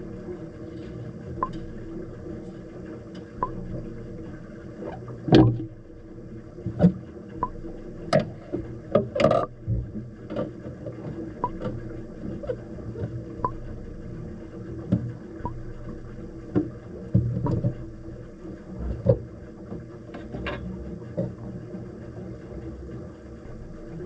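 Jigsaw puzzle pieces being handled: scattered light clicks and taps, a run of them a few seconds in, over a steady low hum.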